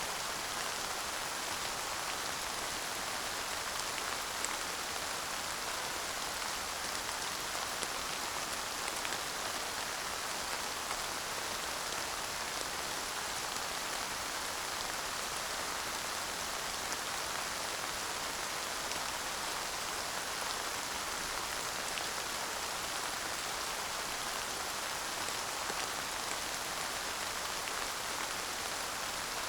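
Steady light rain falling, an even patter with scattered individual drops ticking. There is no thunder.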